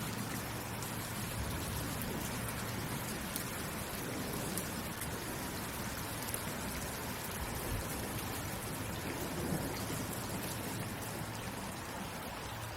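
Steady rainfall, an even hiss of rain with scattered drops landing on a surface.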